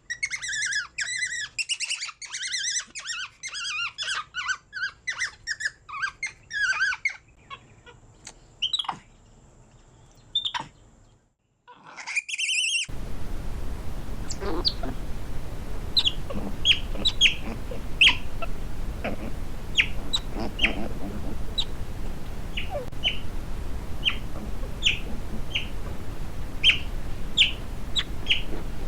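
Birds chirping: a dense chorus of high chirps for the first several seconds that then thins out. After a cut about halfway through, a single bird repeats a short chirp about once a second over steady background noise.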